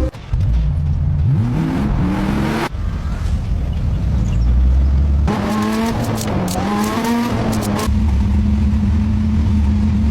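Car engine revving in a string of short cut-together clips. The pitch climbs about a second in, then settles into a steady drone with revs rising and falling in the middle.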